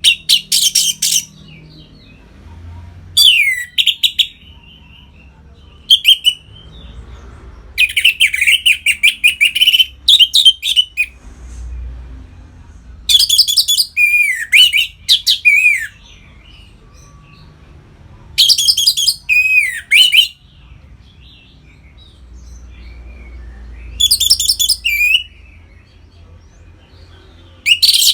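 Orange-headed thrush (anis merah) singing its loud, open 'ngeplong' song in separate phrases a few seconds apart. Each phrase is a quick run of sharp, high notes with downward-swooping whistles, and the longest lasts about three seconds.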